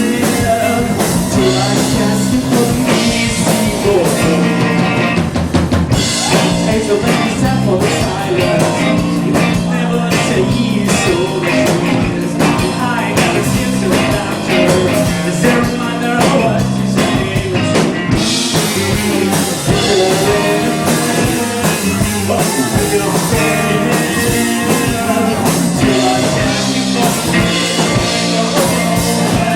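Live rock band playing: electric guitars, bass and drum kit, with some singing.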